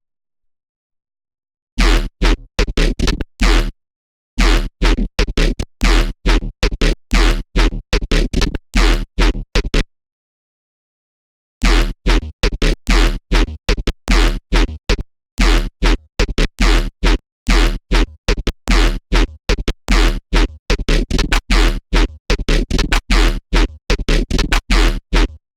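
Serum software synthesizer playing a wavetable patch built from an AI-generated image, in short, rapid staccato notes, several a second, each cut off sharply. The notes stop for a moment about 4 seconds in and pause for over a second around the middle.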